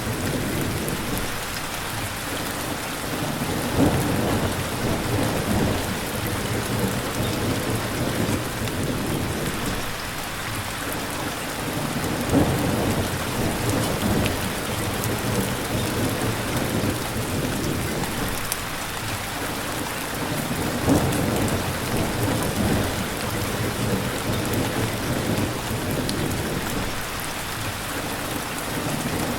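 Steady heavy rain pattering, with low thunder rumbles swelling and fading about three times.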